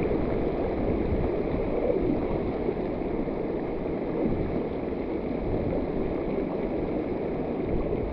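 Heavy rain pouring onto the water, a steady hiss with no let-up.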